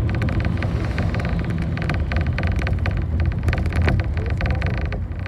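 Bus engine running under a steady low rumble, with frequent small rattles and clicks of the moving bus, heard from inside the cabin.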